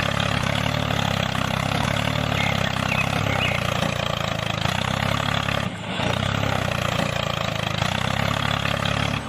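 Small motor of a DIY mini tractor running steadily with a continuous whirr, dropping out briefly about six seconds in.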